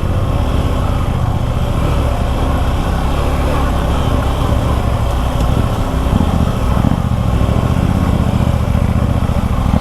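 Suzuki V-Strom 250 SX's single-cylinder engine running steadily under load as the motorcycle rides up a sandy, broken-up climb.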